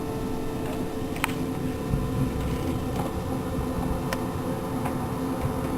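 Steady mechanical hum, like a fan running, with a few sharp clicks over it.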